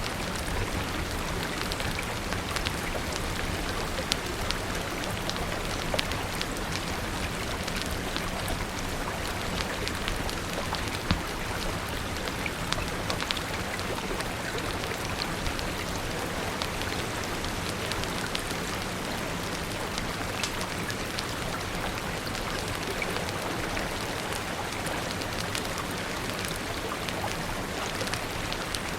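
Steady rain falling, with many scattered sharp ticks and pops throughout, in a mix that also has a crackling wood fire.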